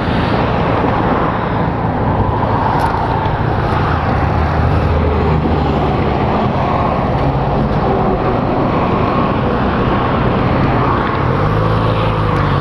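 Steady wind and road rush at freeway speed with a low engine hum beneath it. Near the end an engine tone comes in and rises in pitch.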